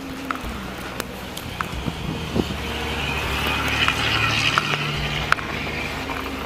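A road vehicle running and passing: a low engine hum under a hiss that swells toward the middle and then eases, with a few small clicks.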